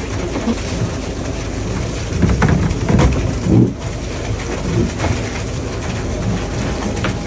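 Fishing boat's engine and deck machinery running steadily during net hauling, with a cluster of louder thumps and knocks about two to four seconds in.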